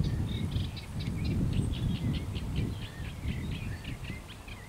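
Small birds chirping, many short calls in quick succession, over a low rumble that is loudest for the first few seconds and then fades.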